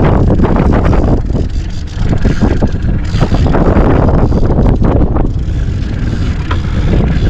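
Strong wind buffeting the microphone in gusts: a heavy, low rumble that surges and eases, dipping briefly twice.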